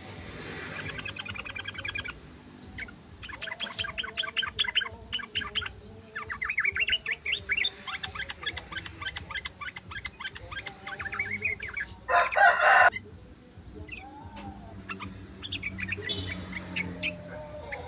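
Yellow-vented bulbul (trucukan) chattering in repeated rapid runs of short notes. A loud, harsh burst lasting under a second cuts in about twelve seconds in.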